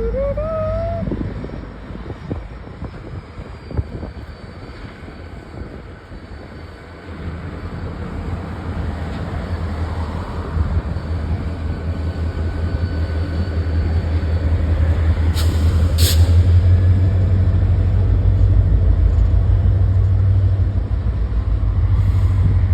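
Train running past, a low rumble that builds from about seven seconds in and stays loud and steady, with two sharp clicks about two-thirds of the way through.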